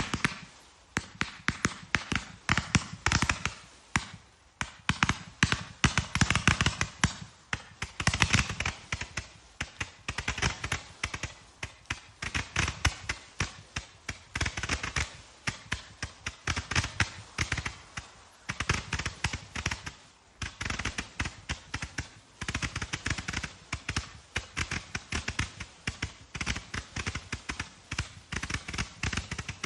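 TROPIC TG378 Gatling Silver Maniax firework cake firing its shots in rapid succession, a dense stream of sharp pops many times a second. The volleys swell and fade in waves every second or two.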